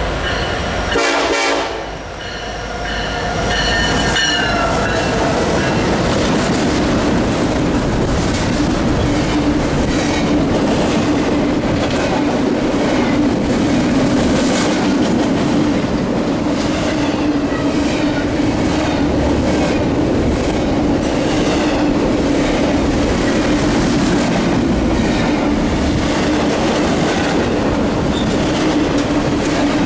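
A diesel locomotive horn sounds one short loud blast about a second in, then a quieter horn note that dips slightly in pitch and fades, a friendly horn salute from the engineer. After that a long BNSF double-stack freight train rolls past at speed, with a steady hum and a regular clickety-clack of wheels over rail joints.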